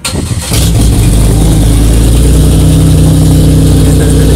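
The 3.8-litre V6 engine of a demolition derby car starting up: it catches about half a second in, runs up, then settles into a loud, steady idle.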